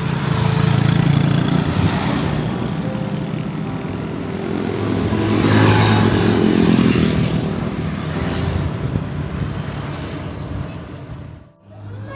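Road traffic: motor vehicles running and passing close by, with two louder passes about a second in and around six seconds in.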